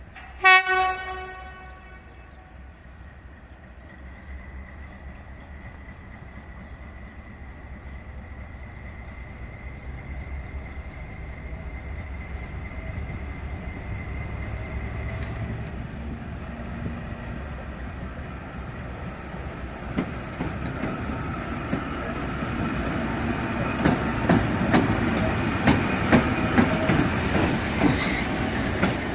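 A short railway locomotive horn blast, then a freight train approaching: a rumble that grows steadily louder, with a thin high whine for several seconds and wheels clattering over the rail joints, loudest near the end.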